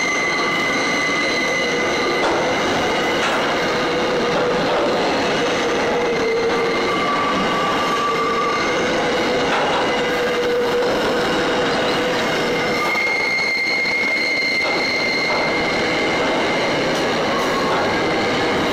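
Loaded container wagons of a long intermodal freight train rolling past, with a steady rumble of wheels on rail and several high-pitched wheel squeals that come and go as the wagons round the curve.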